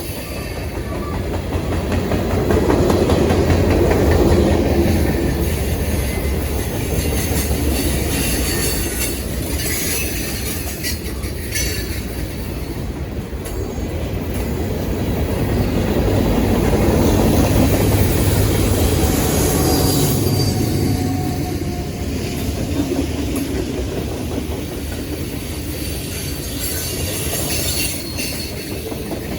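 Freight cars of a long mixed manifest train rolling past, wheels clattering over the rails with thin, intermittent flange squeal. It swells louder about four seconds in and again around seventeen seconds.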